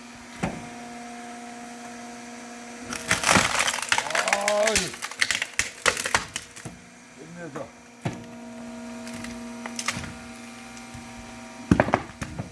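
Log splitter's motor humming steadily while it forces a large log; from about three seconds in the wood cracks and splits with loud splintering and creaking, followed by several more sharp cracks, the last near the end.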